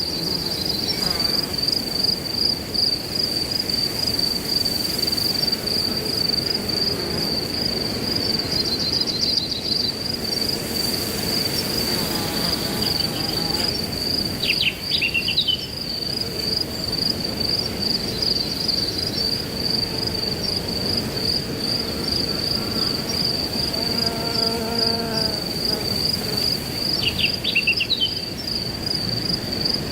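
A cricket trilling steadily in a continuous high, pulsing chirp over a rushing haze of wind in grass. Short bird chirps come in twice, about halfway through and near the end.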